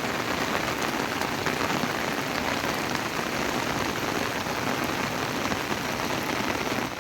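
Steady rain falling: an even hiss of drops with no break.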